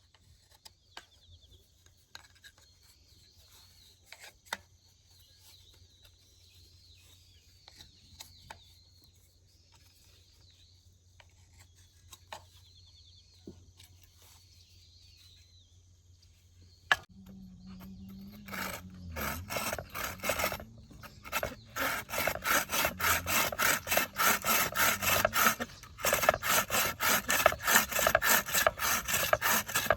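Faint insects chirping, then a little past halfway a hand buck saw starts cutting wood in steady back-and-forth rasping strokes, about two a second.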